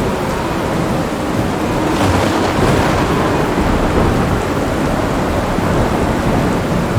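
Heavy rain falling steadily, under a continuous low rumble of thunder.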